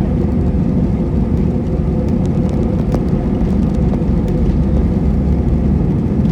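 Steady cabin rumble of an Airbus A320 under way, its engine and airflow noise heard from inside the passenger cabin, deep and unbroken with a faint steady hum over it.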